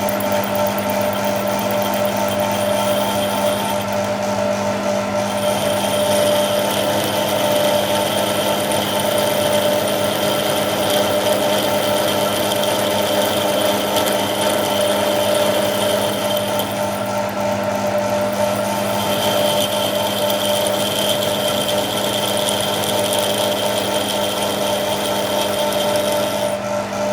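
A motor-driven machine tool running steadily, with a constant hum and a higher whine that drops out twice, for a second or two each time.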